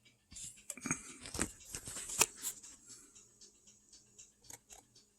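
Handling noise: a flurry of clicks and rustles as small objects are moved about, with the loudest click about two seconds in, then only faint ticks.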